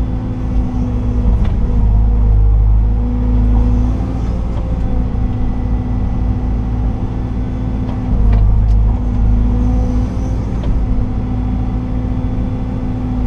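Liebherr R926 excavator's diesel engine running steadily, heard from inside the cab, its note sagging briefly a few times as the hydraulics take load. A few faint knocks are heard over the engine.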